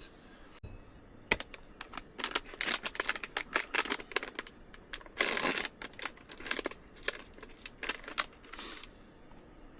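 A packet of muffin mix being handled and opened: crinkling and rustling with many irregular small clicks and crackles, and one longer rasping tear about five seconds in.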